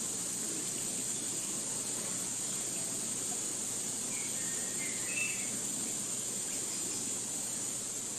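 Forest ambience: a steady, high-pitched chorus of insects, with a few brief bird chirps about halfway through.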